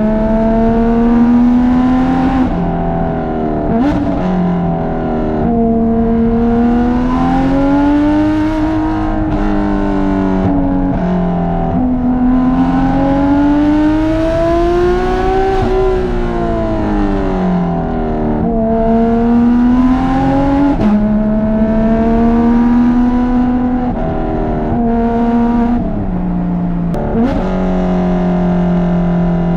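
Porsche 991.2 GT3 RS's 4.0-litre naturally aspirated flat-six, breathing through Dundon street headers and a catless 'crack pipe' exhaust, revving up and down as the car is driven hard. Its pitch climbs and falls over and over, with a few sudden drops as it shifts gear.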